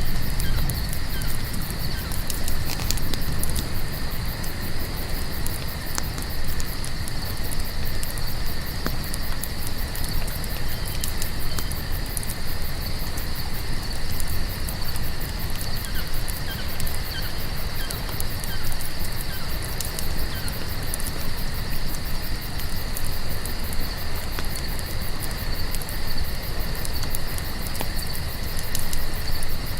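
A steady chorus of crickets trilling, over the low rush of a campfire with scattered small crackles and pops.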